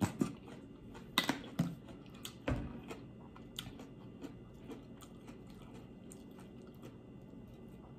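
Close-miked chewing and mouth sounds: several sharp wet clicks and smacks in the first three seconds, then fainter ones.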